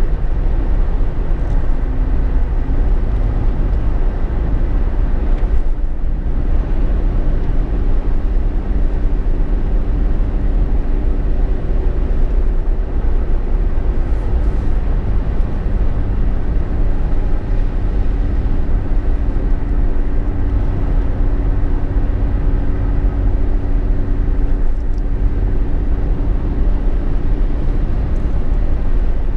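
Cabin noise inside a Jeep Wrangler JK on the move: a steady, loud low road rumble with a faint steady hum running through it.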